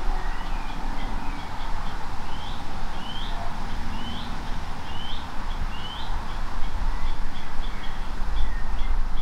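Birds calling: five short rising chirps a little under a second apart through the middle, with other short high notes throughout. Underneath runs a steady low rumble.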